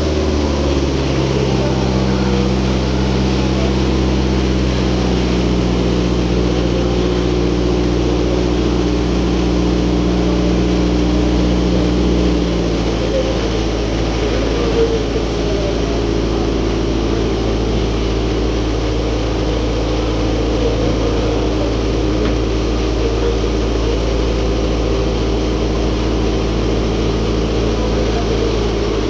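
Ferry boat's engine running steadily, heard on board, a low hum with several steady tones; about twelve seconds in the higher tones fade and the lower hum carries on.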